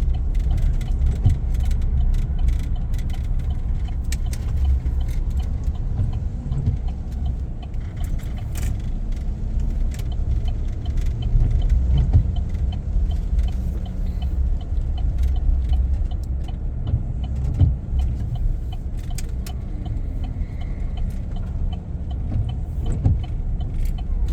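Pickup truck being driven, heard from inside the cab: a steady low rumble of engine and road noise, with a few scattered light clicks and rattles.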